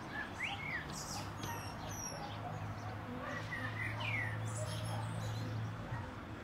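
Small songbirds chirping in short rising and falling calls, over a steady low hum that stops near the end.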